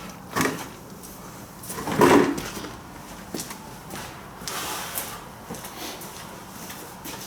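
A few short knocks and clatters of hand tools being handled, about half a second and two seconds in, followed by a softer scraping rustle past the middle.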